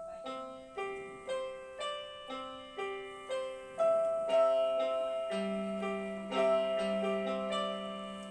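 Angelet XTS 690 electronic keyboard playing its default grand piano voice with sustain on: a simple melody of single notes struck about twice a second, each ringing on into the next. A lower note joins about five seconds in and is held under the melody.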